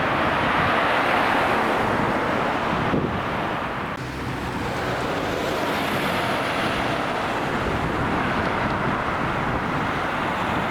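Jet airliner engines producing a steady, loud rumble of noise, with a slight dip about four seconds in.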